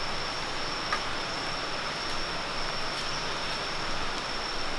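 Steady drone of forest insects: one continuous high whine over a dense hiss, with a single faint click about a second in.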